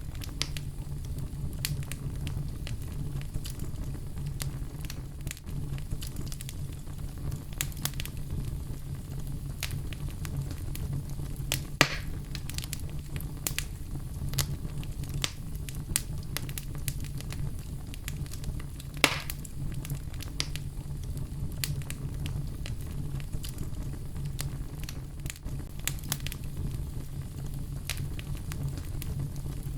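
Fire burning in a fireplace, crackling steadily over a low rumble of flame, with irregular sharp pops; two louder pops come about twelve and nineteen seconds in.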